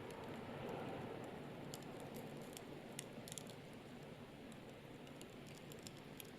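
Wood fire crackling, with many small sharp pops scattered over a soft steady hiss.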